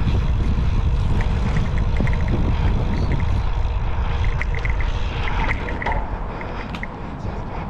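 Wind rumbling on the microphone while riding a bicycle, with faint light clicks and rattles over it; the rumble eases a little near the end.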